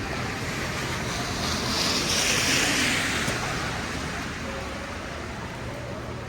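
Tyres hissing on a wet street as a vehicle passes: a steady rushing hiss that swells about two seconds in and fades away.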